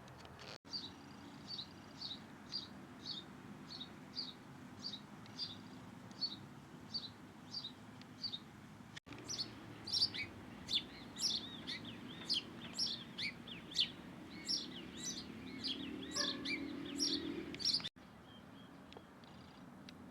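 A small bird chirping: short, high calls repeated about twice a second. After a break, a busier run of louder, quicker chirps follows.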